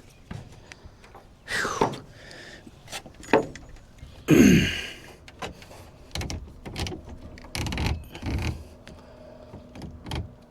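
Hollow knocks, thumps and scrapes of fishing gear and a plastic kayak being handled at a dock, with a few creaks that fall in pitch. The loudest creak comes about four seconds in.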